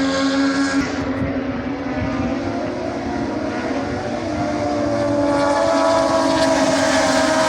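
Racing motorcycle engine running at high revs, a steady pitched drone that drops about a second in, then climbs and grows louder toward the end.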